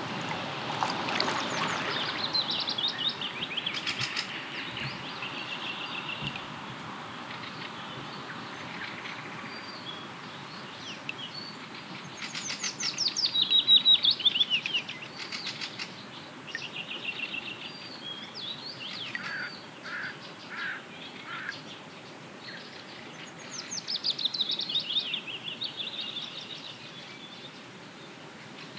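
Several songbirds singing and calling over one another over a faint steady hiss. The loudest is a run of quick descending trills a little before the middle.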